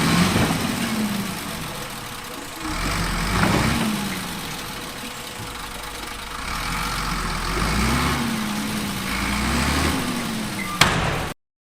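Heavy construction machine's diesel engine running, its pitch and load surging up and falling back three times. A single sharp knock near the end.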